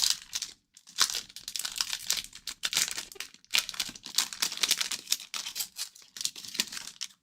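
Wrapper of a 2023-24 O-Pee-Chee hockey card pack being torn open and crinkled by hand: dense, irregular crackling with many sharp crinkles.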